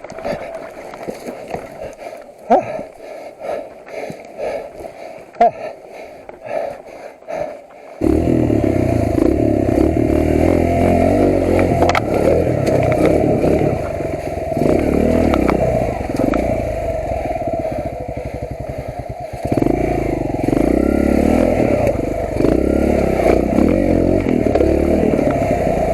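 Motorcycle engine running. The first several seconds hold only light clatter and scraping, then the engine sound suddenly becomes much louder and steady about eight seconds in.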